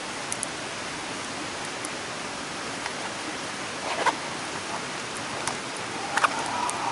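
Steady rushing of a mountain stream, with a few sharp clicks over it, the loudest about four and six seconds in.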